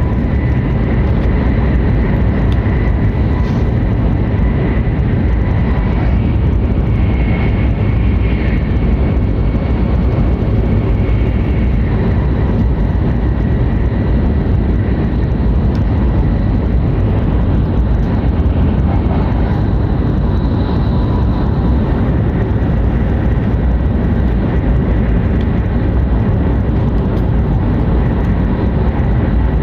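Hokuriku Shinkansen E7/W7-series train running at speed, heard from inside the passenger cabin: a loud, steady, dense rumble with faint steady high tones over it.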